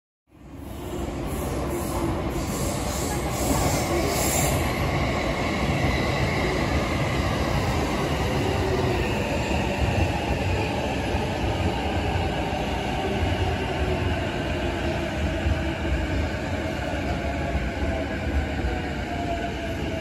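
Electric commuter train running on the elevated tracks, a steady rumble of wheels on rail, with faint tones slowly falling in pitch over the second half. The sound fades in at the start.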